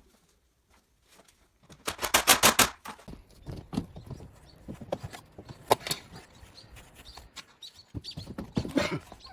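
A quick run of about eight loud knocks about two seconds in, followed by scattered lighter knocks and clatter, with another cluster of knocks near the end.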